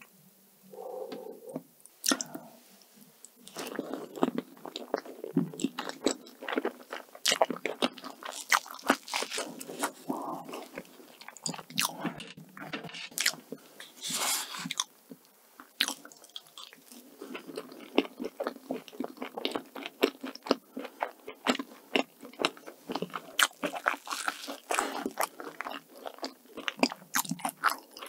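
Close-miked chewing of soft cream layer cake, with many small wet mouth clicks and smacks, and a wooden fork cutting and scraping through the cake.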